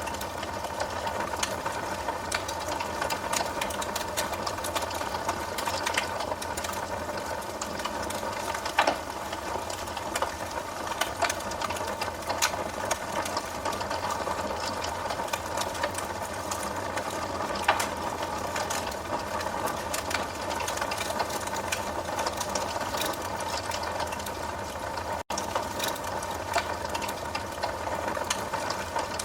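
Wood fire burning in a fireplace: a steady rushing hiss with irregular sharp crackles and pops from the burning logs.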